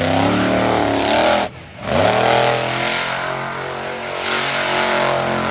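Monster truck engine revving hard. The engine cuts off about a second and a half in, comes back on with a rising pitch, and then holds at high revs.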